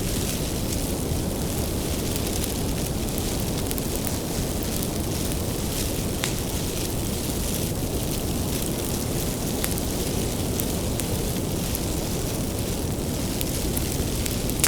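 Wood bonfire burning with a steady low rumble of flames and scattered sharp crackles and pops from the firewood.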